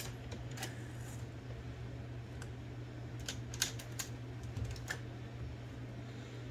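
Scattered small, sharp clicks and taps of metal parts as the bearings of an Olivetti Linea 98 typewriter carriage are handled and set in the guide rail, over a steady low hum.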